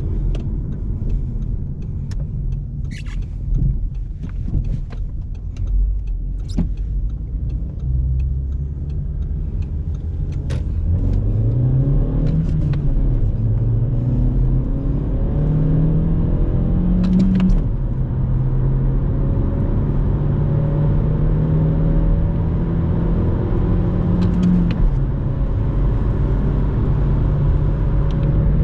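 2007 Audi A3 Sportback's 1.6 FSI four-cylinder petrol engine heard from inside the cabin as the car accelerates through the gears of its six-speed manual. The engine note rises, drops at each of three upshifts, then holds steady near the end. A series of light clicks comes in the first few seconds while the engine is still low.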